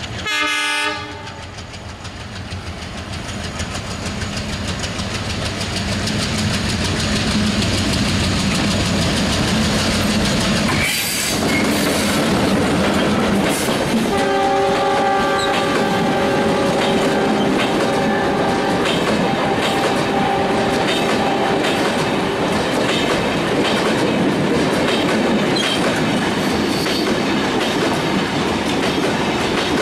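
Bangladesh Railway's Chitra Express intercity passenger train passing close at speed. A short blast of the diesel locomotive's horn comes at the start, then the noise of the train builds as it approaches. A longer horn sounds as the locomotive goes by, followed by the steady rumble and clickety-clack of the passenger coaches running past.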